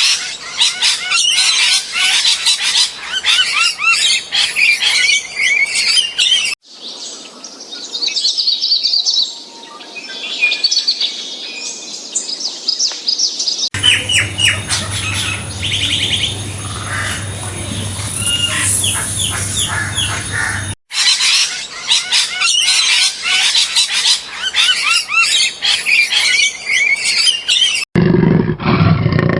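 Several short recordings of birds chirping and trilling, dense rapid high-pitched calls, joined by abrupt cuts every seven seconds or so. Near the end a different, lower-pitched recording begins.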